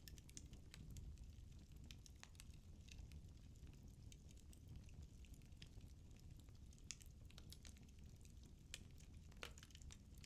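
Firewood burning in a fireplace, crackling faintly with irregular small pops and snaps over a low steady rumble of the flames; a couple of pops stand out, about seven and nine seconds in.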